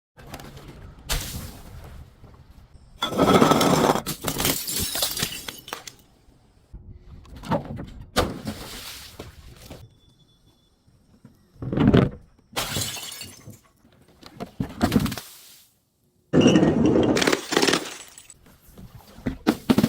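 Glass breaking and crunching in a series of separate smashes, each a sudden burst of shattering with crackling pieces after it. The longest and loudest breaks come a few seconds in and again near the end.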